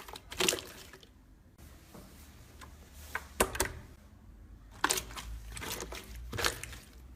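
Slime being squeezed and poked by hand: a run of irregular sticky pops and clicks with soft squishing between them.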